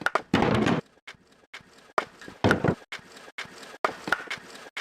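Lo-fi drum groove built from slices of a granulized field recording: short clicky hits standing in for hi-hats and longer noisy hits standing in for snares, in a loose repeating pattern, shaped by a transient processor.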